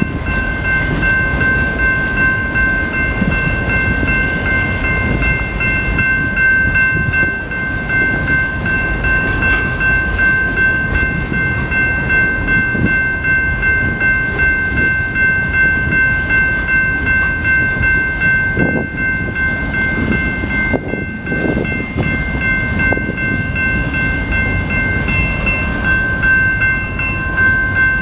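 Union Pacific freight train's boxcars rolling slowly through a grade crossing, with a steady rumble and irregular clatter of wheels on the rails. A grade-crossing bell rings steadily at several high pitches over the train noise.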